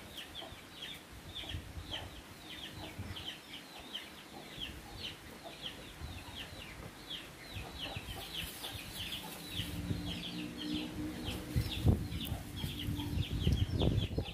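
A bird chirping rapidly and without pause, short high thin chirps, each dropping slightly in pitch, about three a second. Near the end a low rumble with a few thumps rises beneath the chirping.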